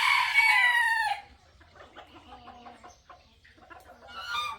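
Rooster crowing: one long crow dropping in pitch at its end about a second in, then a second crow starting near the end.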